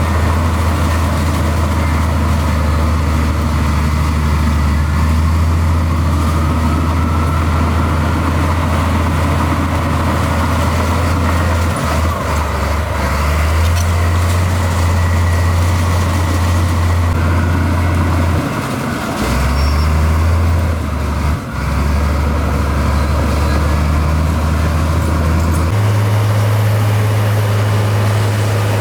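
Heavy diesel engine of a construction machine running steadily with a low drone. Its pitch shifts up and down in steps several times, most plainly about 26 seconds in.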